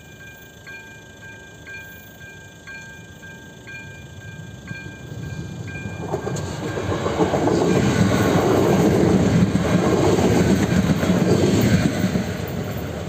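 Level-crossing warning bell ringing electronically about once a second. From about four seconds in, an electric multiple unit train approaches and passes close by: loud rumbling and wheel clatter on the rails that drowns out the bell, easing off near the end.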